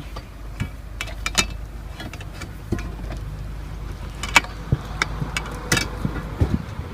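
Scattered clicks and knocks of hardware being handled, over a steady low rumble.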